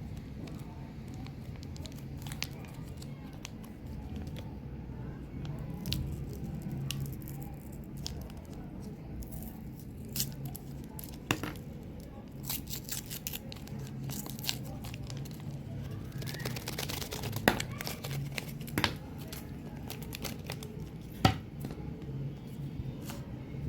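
Plastic and foil packaging of Trident gum and Ice Breakers mints being handled and torn open, crinkling and tearing with scattered sharp clicks and a longer stretch of crinkling about two-thirds of the way through. A steady low hum runs underneath.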